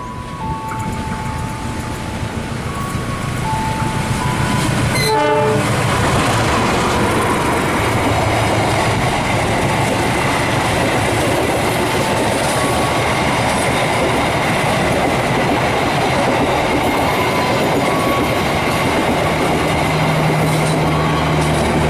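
A passenger train passing close by at speed, its wheels on the rails making a loud, steady rush from about five seconds in. Before that, a run of single held tones steps between a few pitches.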